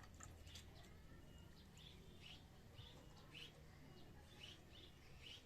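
A caged pet bird chirping faintly: short high notes repeated about twice a second.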